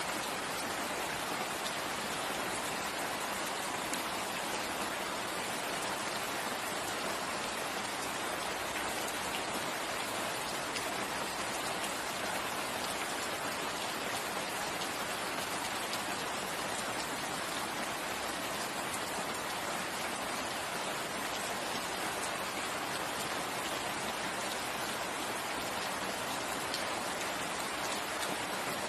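Steady rain falling in a forest, an even hiss of rainfall with fine scattered drop ticks, unchanging in level.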